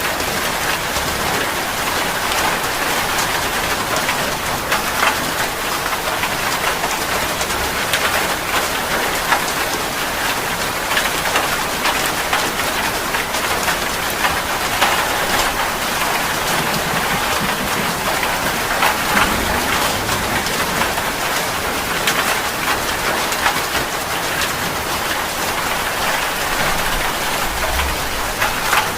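Steady rain falling, a dense hiss of drops striking a surface with many small pattering ticks, holding an even level throughout.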